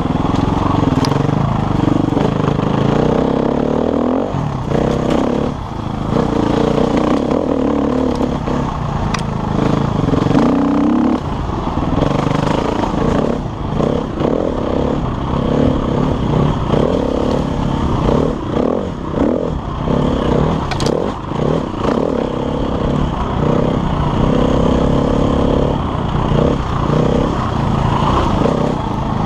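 KTM enduro dirt bike engine working hard on a rough trail, revving up and down as the throttle is opened and shut. A few sharp clicks and clatter come through along with it.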